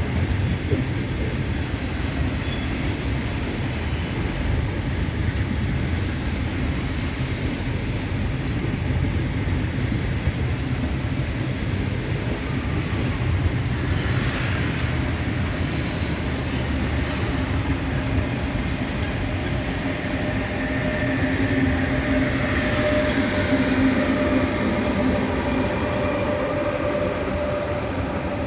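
Passenger train moving along the platform: a steady heavy rumble of wheels on rail. About two-thirds of the way in, a steady whine and a higher sliding tone join it, and it gets slightly louder.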